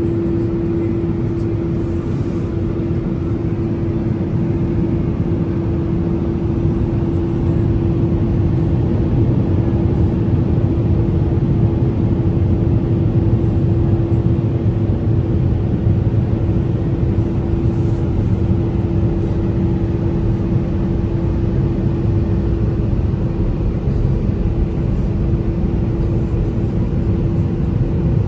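Mark VII ChoiceWash XT car wash air dryer blowers running: a steady, loud rush of air with a constant hum, heard from inside the car. The hum drops out near the end.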